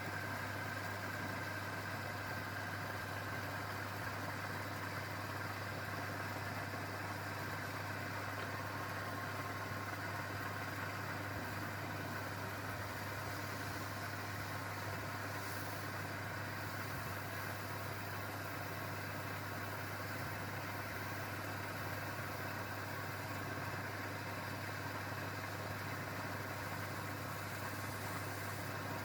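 A steady, unchanging motor or engine hum with a low drone and a fainter higher tone above it.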